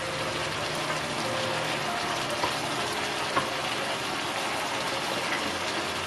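Duck bulgogi sizzling in a frying pan as its sauce cooks down: a steady hiss with a couple of small pops.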